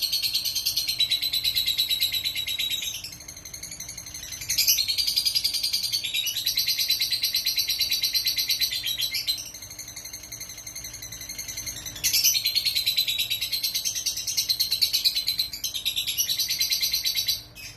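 Lovebird singing in long, very fast, high-pitched chattering trills of several seconds each, with quieter chatter in between; the last trill cuts off suddenly near the end.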